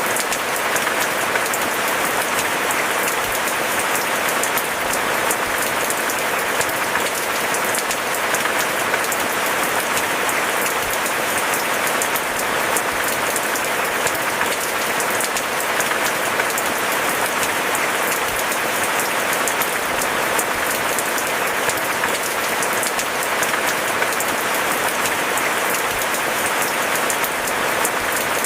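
Steady rain: a dense, even patter of many drops at a constant level.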